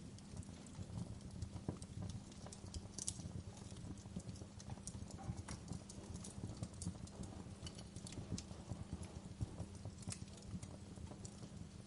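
Wood fire crackling: irregular pops and snaps over a low, steady rumble.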